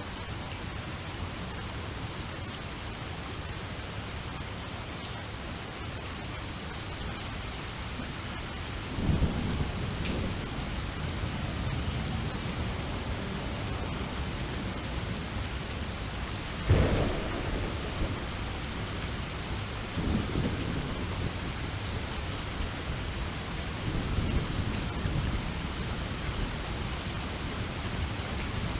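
Steady heavy rain with thunder. Rumbles of thunder start about a third of the way in, a sharper, louder clap comes near the middle, and more rolls of thunder follow.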